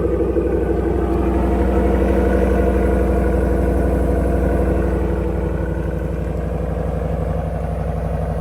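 2024 Ram 1500's 5.7-litre Hemi V8 idling steadily just after a cold start, in its fast warm-up idle; the level eases a little about five or six seconds in.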